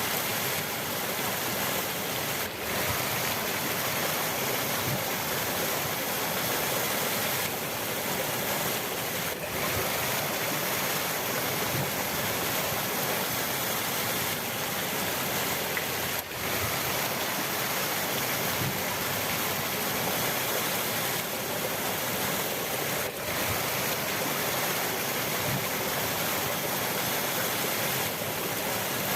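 Steady rushing of flowing river water, an even wash of sound that dips briefly about every seven seconds.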